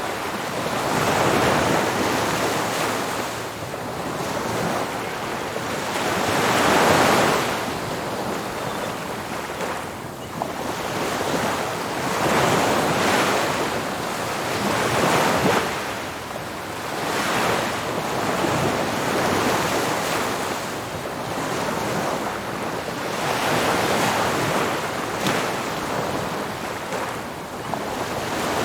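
Ocean waves breaking on a beach, the surf swelling and easing every few seconds in a steady wash of noise.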